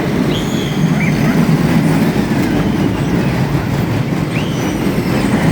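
Steady rumble of wheels running on a rail track, with a few brief high squeals, from an amusement-park ride or train.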